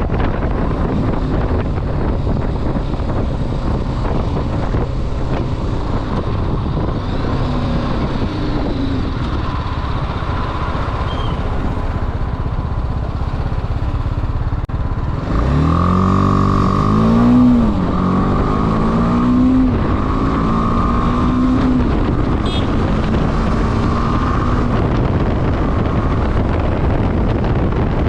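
Motorcycle engine running under way, with heavy wind noise on the microphone. About halfway through it accelerates hard, its pitch climbing and dropping back as it shifts up through a few gears.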